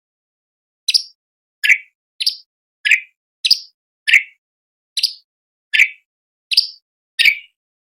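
Orange-bellied leafbird calling a rapid series of about ten short, sharp notes starting about a second in, alternating between a higher and a lower pitch.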